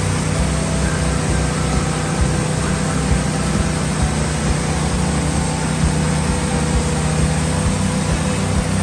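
Woodmizer LT15 sawmill running steadily, its engine holding a constant hum.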